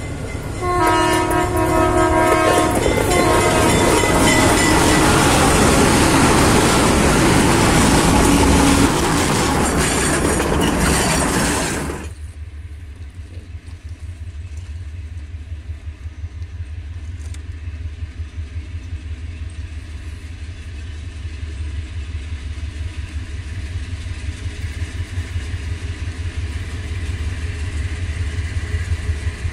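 A train horn sounds over loud train noise, which stops abruptly about twelve seconds in. After that, the low engine rumble of diesel locomotives hauling a loaded freight train grows louder as they approach.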